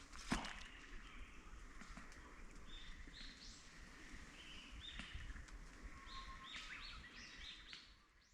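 Small birds chirping: many short, high calls repeating and overlapping, with one sharp click about a third of a second in.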